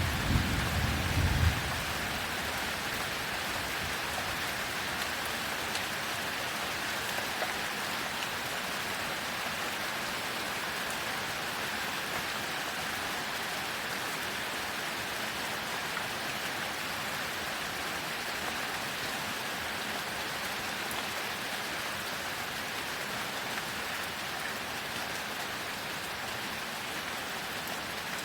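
Heavy rain falling steadily, with the tail of a thunder rumble dying away in the first second or two.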